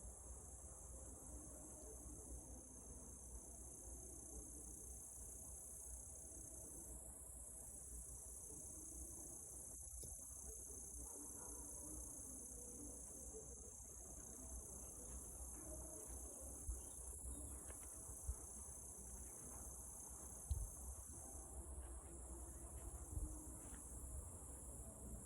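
Crickets chirring steadily in a continuous high-pitched trill, with a few faint knocks in the second half.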